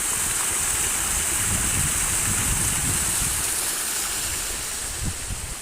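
Flood-swollen brook water rushing steadily, a loud continuous hiss over an uneven low rumble. It eases a little near the end, with a short knock about five seconds in.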